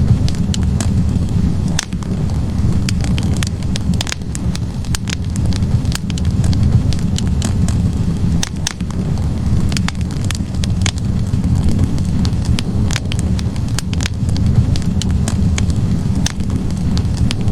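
Wood fire burning in a fireplace: a steady low rush from the flames, with frequent, irregular sharp crackles and pops from the burning logs.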